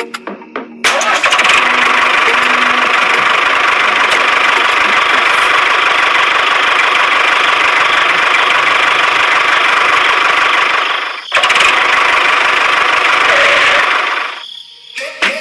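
A small motor running loudly and steadily for about ten seconds, cutting out briefly, then running again for about three seconds before stopping.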